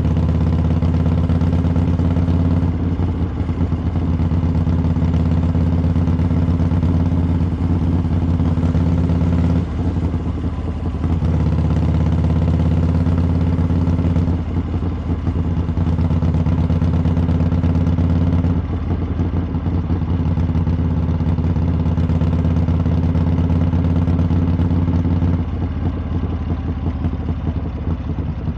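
Harley-Davidson V-twin motorcycle engine and exhaust running under way at a steady throttle, with brief roll-offs of the throttle several times and easing off near the end.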